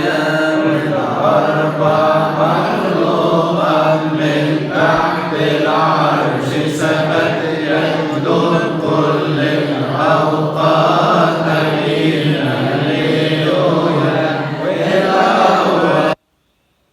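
Coptic praise hymn (madeeh) chanted over a steady low drone, the melody rising and falling in long sung phrases. The sound cuts off abruptly to silence near the end.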